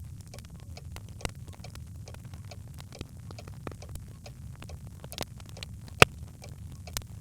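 Birchwood fire crackling in a fireplace: scattered small pops and snaps over a low steady rumble, with one sharp, loud pop about six seconds in.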